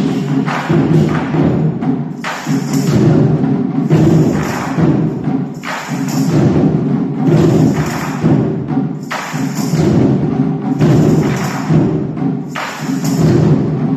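Percussion-led music, drums and other struck instruments, with strong accented strokes recurring about every second and a half to two seconds.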